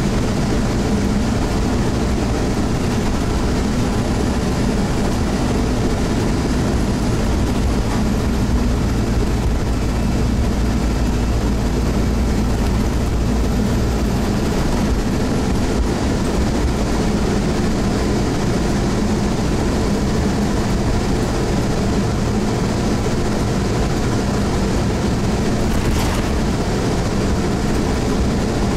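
Scania OmniCity bus's diesel engine running under way, heard from inside the bus: a steady low hum and rumble. A faint high whine sounds for about ten seconds in the first half, and a single click comes near the end.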